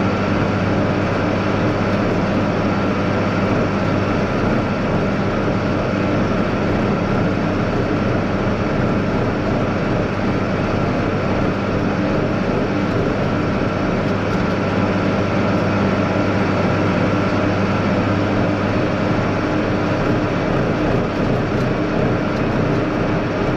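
John Deere 4960 tractor's turbocharged six-cylinder diesel engine running steadily while the tractor drives along the road at about 18 miles an hour. It makes an even, loud drone with a constant low hum throughout.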